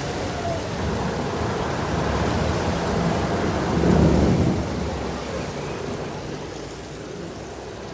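Public canal boat's engine running with rushing water, a low rumble under a steady hiss. It swells to its loudest about four seconds in, then eases off.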